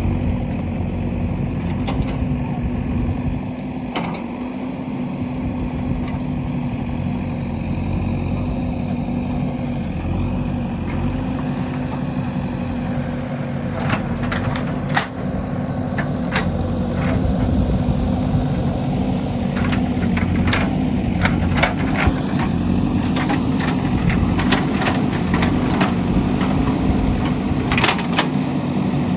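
JCB 3DX backhoe loader's diesel engine running steadily, with a scatter of sharp knocks and clanks in the second half.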